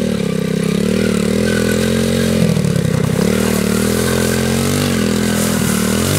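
Small single-cylinder dirt bike engine running under light throttle, its pitch dipping and rising as the rider works the throttle, with a brief rough, clattery patch about halfway through.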